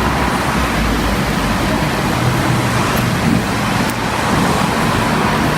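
Steady rushing noise of heavy thunderstorm rain, with a continuous low rumble underneath.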